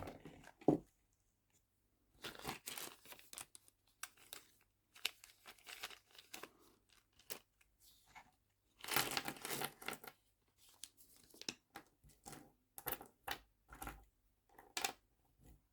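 Plastic packaging crinkling and tearing as nail charms are handled and sorted, in uneven bursts of rustling with quiet gaps. The longest burst comes about nine seconds in.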